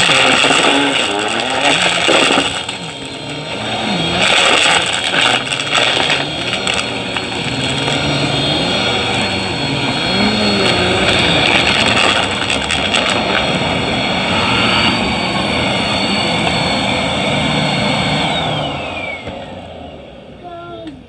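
Vacuum cleaner running fast with a steady high motor whine and a rushing air noise that swells and eases as it is pushed over the floor. Near the end it is switched off and the whine falls away as the motor spins down.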